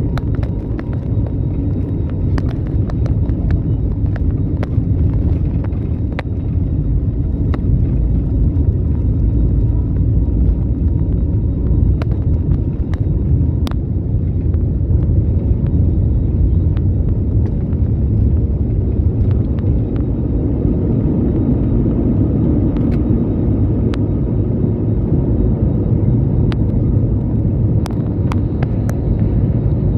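Airbus A320's jet engines and airflow heard from inside the passenger cabin as a loud, steady, low rumble, with scattered faint clicks.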